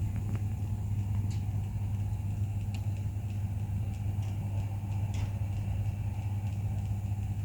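Car engine running with a steady low hum, interspersed with a few faint ticks.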